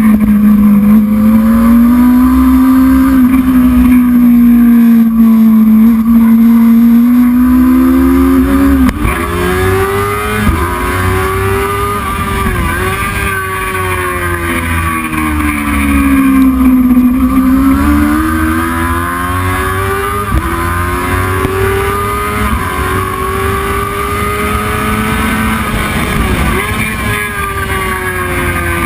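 Racing motorcycle engine at high revs, its pitch climbing and falling in long sweeps with brief sharp dips at gear changes. Loudest for the first nine seconds or so.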